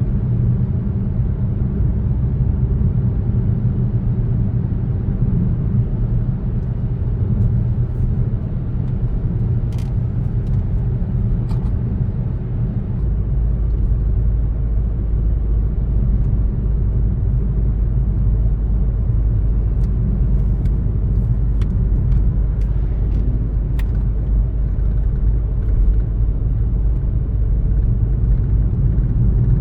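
Car driving along a road: steady low engine and tyre rumble, the deepest part of the rumble growing stronger about halfway through, with a few faint small clicks.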